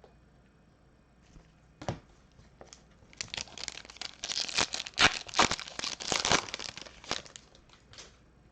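A trading card pack wrapper being torn open and crinkled, with a dense run of crackling rustle in the middle few seconds.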